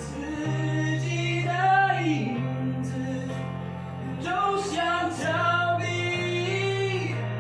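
A voice singing a pop melody in phrases over a backing track of sustained low chords.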